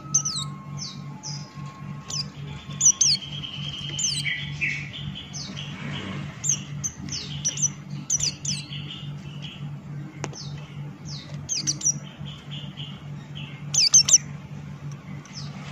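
White-eye (pleci Buxtoni) singing hard: a fast, continuous run of short high chirps and quick sweeping notes, over a steady low hum.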